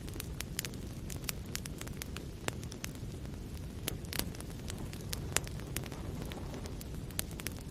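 Wood fire burning in a fireplace: a steady low rumble of the flames with frequent sharp crackles and pops, the loudest a little past halfway.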